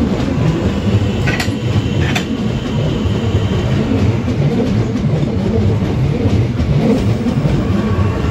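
Southeastern electric multiple-unit train running past close by on curving track: a steady rumble of wheels on rail, with two sharp clicks about a second and a half and two seconds in.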